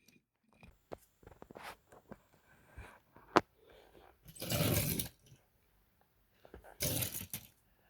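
Handling noise close to a microphone: a sharp click, then two short bursts of rustling.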